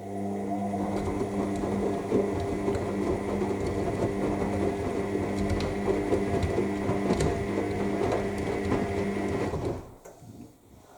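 AEG 7000 Series washing machine's drum turning with the wash load during the main wash: a steady motor hum over the tumbling of wet laundry. It starts suddenly and stops about ten seconds in as the drum pauses before turning the other way.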